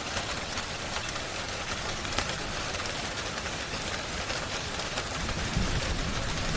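Steady rain hiss with scattered sharp crackles and pops from a wood fire. A low rumble swells about five seconds in.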